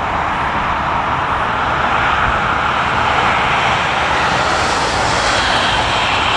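Jet airliner engines, a steady loud rushing that grows slightly louder and brighter about four seconds in.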